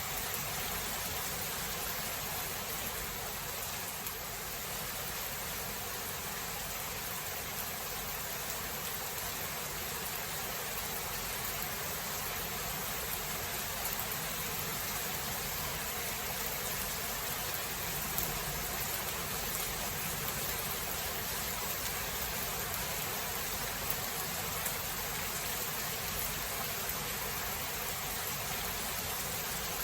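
Steady heavy rain falling, an even hiss with a few faint drop ticks and no thunder.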